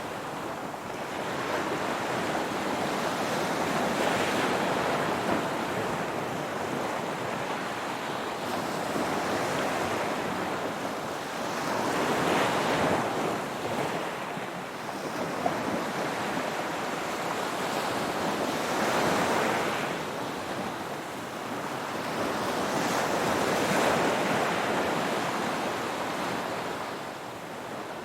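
Ocean waves breaking and washing on the shore, a continuous surf wash that swells and eases every several seconds as each wave comes in.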